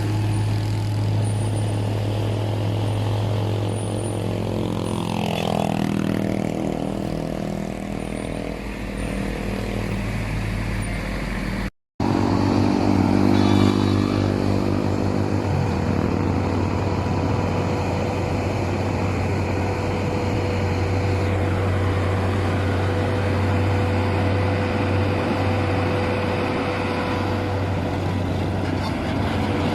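Heavy truck diesel engines labouring up a steep climb: a deep, steady drone, with a pitch that sweeps up and down about five seconds in. The sound cuts out for a moment about twelve seconds in.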